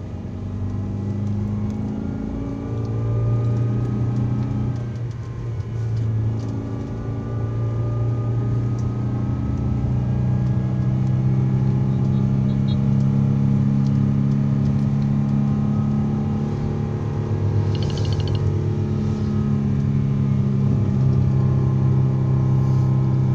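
Daihatsu Terios engine running under load while climbing, heard from inside the cabin as a steady hum whose pitch steps a few times in the first ten seconds, then holds steady.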